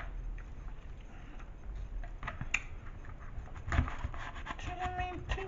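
Quiet rubbing and scraping with scattered small clicks and one sharper knock, from food and its container being handled as the chimichanga is taken up to eat. A voice starts singing out a word near the end.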